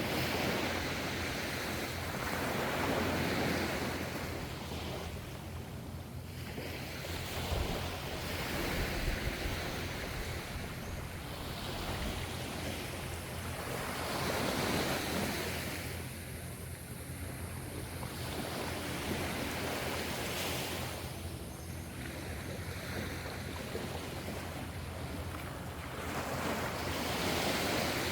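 Ocean waves breaking and washing in, one swell every three to six seconds, over a steady low rumble of surf.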